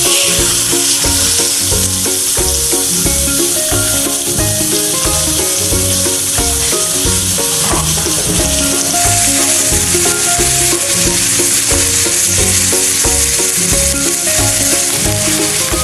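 Marinated chicken breast frying in hot coconut oil in a pan: a steady, loud sizzle that sets in suddenly as the frying starts. Background music plays underneath.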